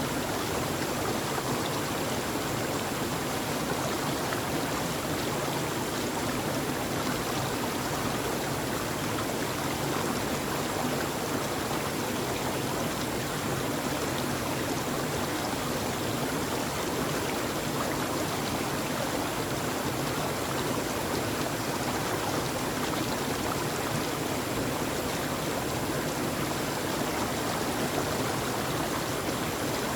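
Steady, unchanging rushing of water used as nature white noise, an even hiss with no separate drops, splashes or other events.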